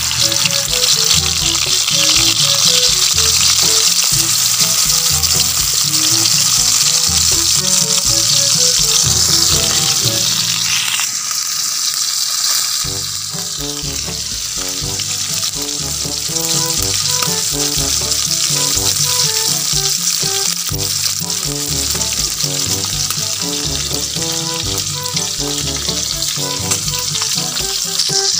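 Breaded earthworms deep-frying in hot oil in a wok, a steady loud sizzle. Background music with a bass line plays underneath and drops out for a moment near the middle.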